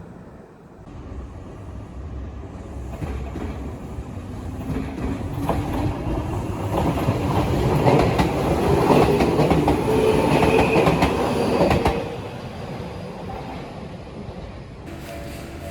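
Tokyu Ikegami Line electric train passing: it builds up, its wheels clack rapidly over the rail joints at its loudest, then the sound drops off suddenly as it goes by.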